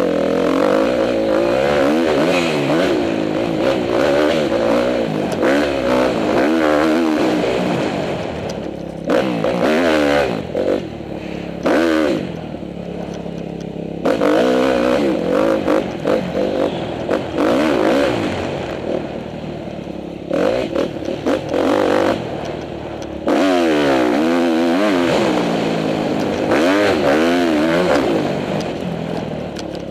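2010 Honda CRF250R's single-cylinder four-stroke engine revving up and down under a rider, its pitch rising and falling again and again with the throttle and gear changes. The sound jumps abruptly several times where clips are cut together.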